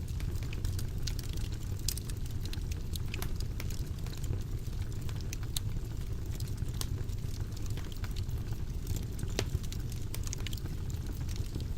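Wood fire crackling: frequent sharp pops and snaps over a steady low rumble of the flames.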